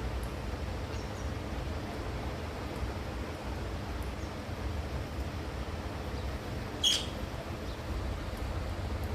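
A bird gives one short, sharp high call about seven seconds in, with a few faint chirps earlier, over a steady low rumble like wind on the microphone.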